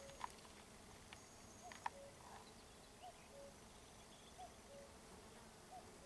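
Near silence in open country with a faint bird call, two notes with the second lower, repeated about every second and a half. There are a few small clicks in the first two seconds.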